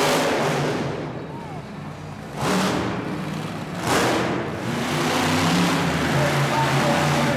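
Monster truck engine running and revving hard, with two sudden loud surges about a second and a half apart.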